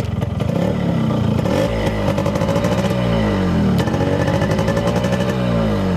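Yamaha RX-100's two-stroke single-cylinder engine running, revved up and let back down a couple of times.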